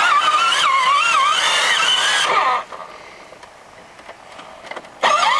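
Electronic sound effect from a child's Scania ride-on toy truck: a loud wavering, revving tone for about two and a half seconds that glides down and cuts off, with a second short gliding burst near the end.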